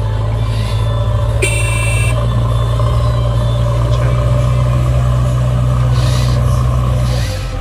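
A heavy vehicle engine running steadily with a low drone, with a short high-pitched horn toot about a second and a half in; the drone drops off near the end.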